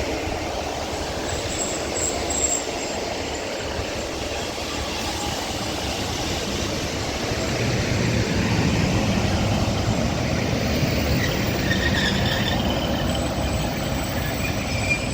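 A two-unit Class 156 diesel multiple unit running into the platform and slowing. Steady wheel-on-rail noise and the rumble of its underfloor diesel engines grow louder from about eight seconds in, with faint brake squeals near the end.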